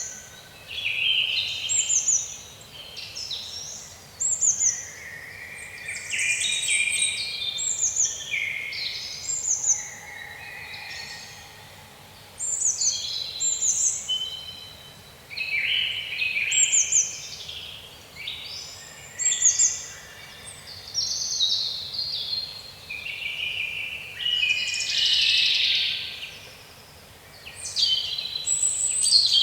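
Songbirds chirping and singing in a continuous run of short, quick notes, many of them falling in pitch, sometimes overlapping.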